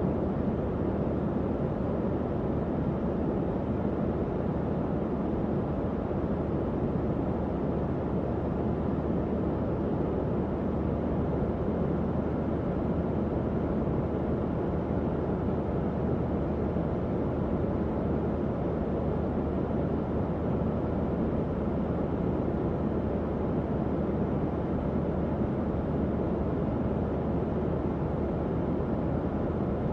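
Tower fan running steadily, a continuous low rushing of air with a faint underlying hum.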